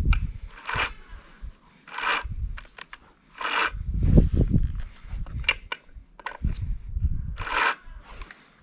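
A hand tool scraping in several separate strokes, each about half a second long, with low knocks and handling noise between them.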